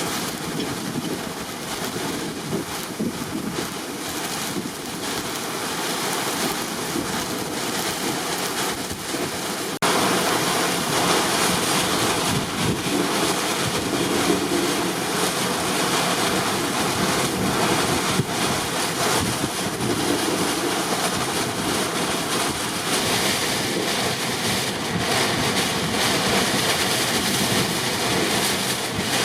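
Hurricane wind with driving rain, a dense steady rush with wind buffeting the microphone. It turns suddenly louder and brighter about ten seconds in.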